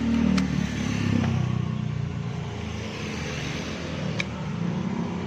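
A motor vehicle's engine running steadily, with a few sharp clicks about half a second, a second and a quarter, and four seconds in.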